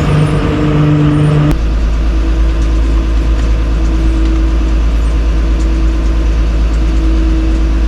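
Engine running with a steady hum. A click about a second and a half in is followed by a deep, steady low rumble with a fainter hum over it.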